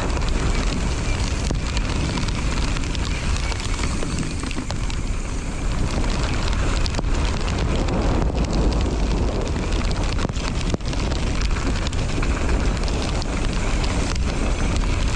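Wind buffeting the microphone and tyres rumbling over a wet dirt trail as a mountain bike descends, with scattered knocks and rattles from the bike.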